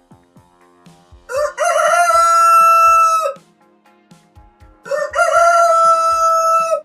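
Rooster crowing twice, each crow a short rising start into a long held note, over quiet background music.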